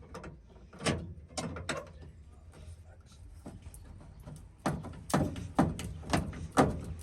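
Sharp metal knocks from hammer-and-chisel work breaking sheet metal out of a Honda Civic's body at the spot welds: a few blows near the start, then a run of about five, roughly half a second apart, in the second half.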